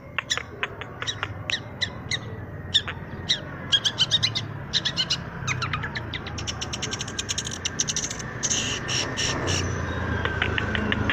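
Long-tailed shrike calling: sharp, short, high notes a couple of times a second at first, quickening about halfway into rapid-fire rolls of clipped notes.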